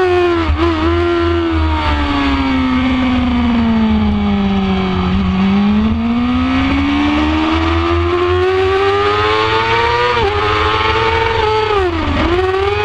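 2006 Yamaha R6's inline-four engine heard from on board at speed. The revs fall steadily for about four seconds while the bike is leaned through a corner, then climb for about five seconds, drop sharply about ten seconds in, and dip quickly and recover near the end, over a steady rush of wind.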